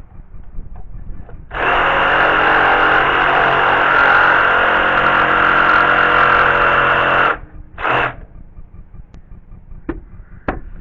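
Power saw running and cutting wood for about six seconds, starting about one and a half seconds in and stopping suddenly, followed by a short scrape and a few sharp knocks.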